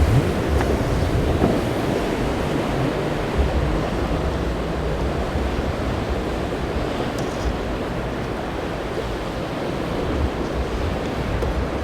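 Waves and surf washing at an ocean inlet, with wind buffeting the microphone: a dense, steady rush of noise, heaviest in the low end.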